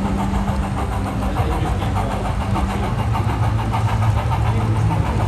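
Engine idling steadily with a low hum and an even pulsing beat.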